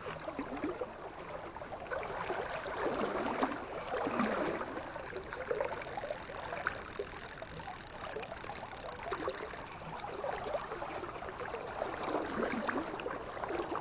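River water flowing and gurgling, an uneven rushing that swells and fades. A high, rapidly pulsing chirr joins in for about four seconds midway.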